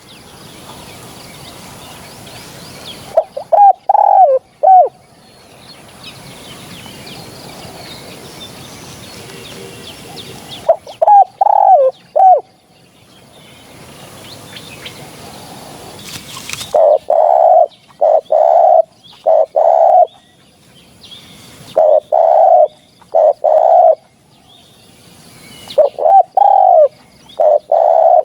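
Spotted dove cooing in repeated phrases. There are short groups of coos early on, then longer runs of loud, low coos from about the middle onward, with a steady hiss in the gaps between phrases.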